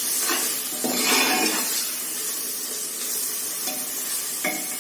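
Onion-tomato masala, with chilli powder and turmeric just added, sizzling in the pressure cooker as it is stirred, a spoon scraping the pan a few times.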